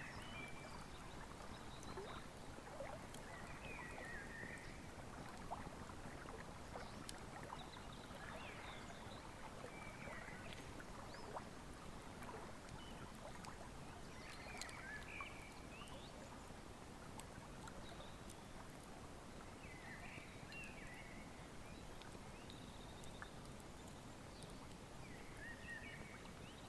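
Wood fire crackling with scattered sharp pops over the steady rush of a river, while a bird calls in short chirping phrases every few seconds.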